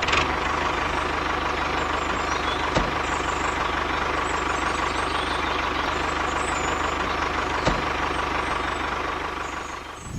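Small electric motor running steadily with an even whirring hum, with a couple of faint clicks; it fades out near the end.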